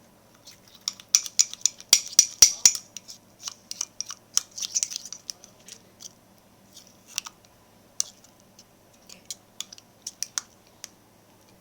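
Utensil stirring thick cookie dough in a cup, with irregular clicks and scrapes against the cup's sides, busiest in the first half and thinning out later.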